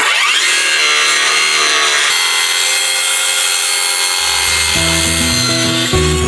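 Small electric circular saw spinning up and cutting through a board, a steady high whine. Acoustic guitar music comes in about four seconds in.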